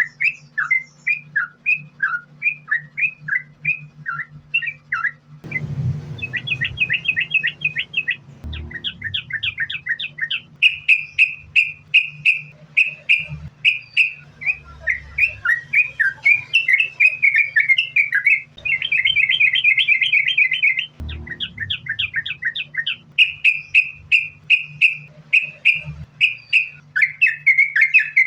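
Yellow-vented bulbul (trucukan) singing a long, unbroken string of quick chirping notes, about four or five a second, that run into faster rattling trills twice. A steady low hum sits underneath, and two soft thumps come through, one about five seconds in and one near the twenty-first second.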